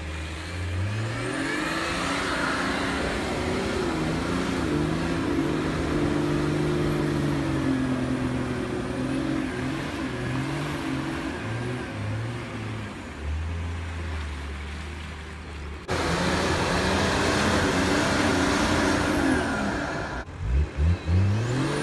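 Nissan Patrol GR 4x4's engine revving as it works through deep snow, its pitch rising and falling with the throttle. It breaks off sharply about sixteen seconds in, then revs again.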